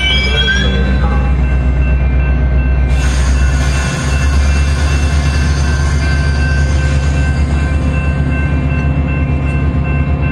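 Metra commuter train at the station: a steady low diesel locomotive hum with steady whining tones above it. About three seconds in, a broad rushing noise joins and carries on.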